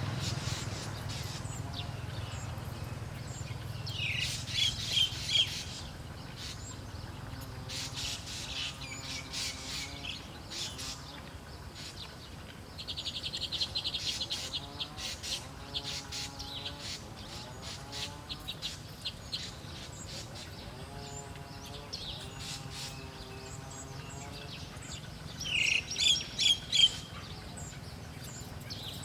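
Wild songbirds chirping, with a loud burst of rapid chirps about four seconds in and again near the end, and a fast trill around the middle.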